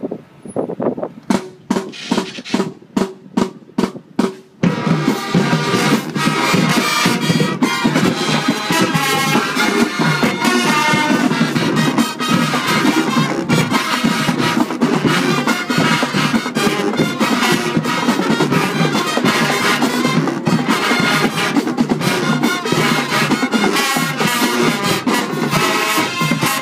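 High school marching band starting a number. For the first four or five seconds the drums play separate sharp hits, then the full band with brass and drums comes in loud and carries on.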